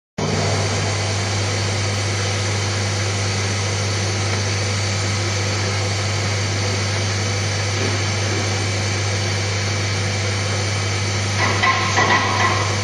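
CNC hot-wire foam cutter running: a steady low hum over an even hiss. About eleven seconds in, irregular crackling joins it.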